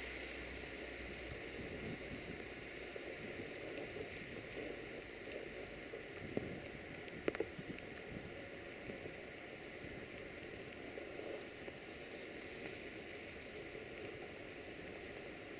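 Steady rain falling, with a few sharp ticks about seven seconds in.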